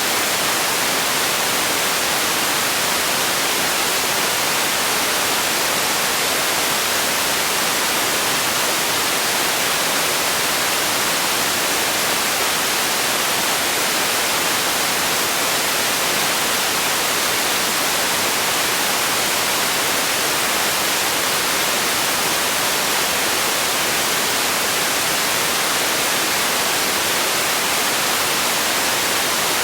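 Steady white noise: an even, unbroken hiss weighted toward the high end.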